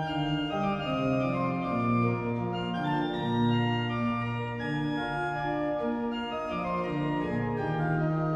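Pipe organ playing Baroque music, several held notes moving in steps over sustained bass notes, from Hauptwerk samples of the 2008 Mascioni organ of Giubiasco.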